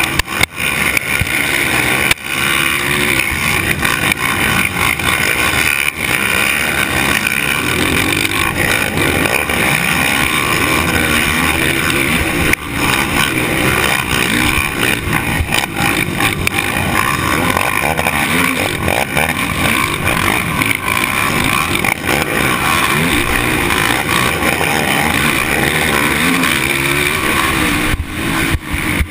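Motocross bike engine racing hard, its pitch rising and falling continuously as the throttle is worked, over a loud rushing noise. The sound drops out briefly a couple of times.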